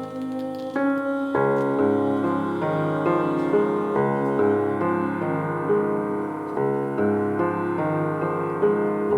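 Piano playing slow, held chords, with deeper bass notes joining about a second and a half in.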